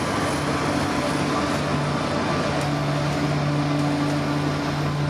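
CPKC freight train rolling slowly past: a steady rumble of the cars with an even low drone underneath.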